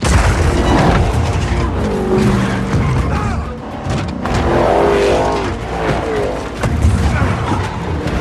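Action-film car-chase sound mix: car engines revving with gliding pitch and tyres skidding, layered over dramatic score music. It starts suddenly at full loudness.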